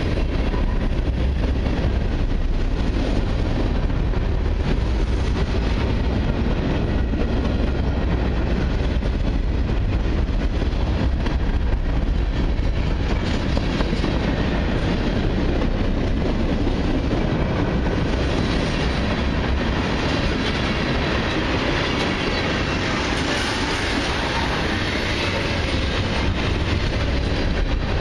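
Freight cars of a long mixed train, covered hoppers and tank cars, rolling past close by: a steady rumble of steel wheels on the rails, with a higher rushing hiss building over the last third.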